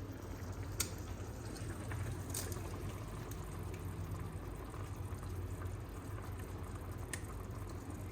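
Pot of chicken and vegetable soup simmering, bubbling steadily as egg white is added, with three short, sharp clicks of a utensil against the pot.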